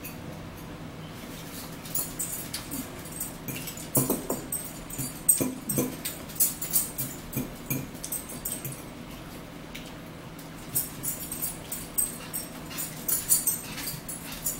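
Close-up eating sounds of a spinach and boiled-egg meal: wet chewing and lip smacking in irregular bursts, with forks on the dishes. The bursts come in two spells, one starting about two seconds in and another near the end, with a pause between them.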